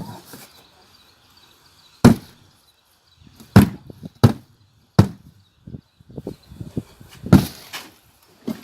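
Cardboard box being smashed apart: about five sharp, loud blows with lighter knocks and crunching between them.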